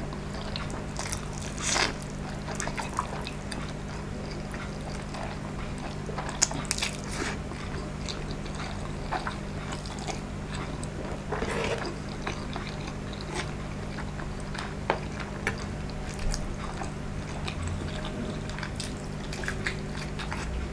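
Close-up mukbang eating: wet chewing and mouth smacks as instant noodles, a balut egg and a block of luncheon meat are eaten, with short clicks and smacks at irregular intervals.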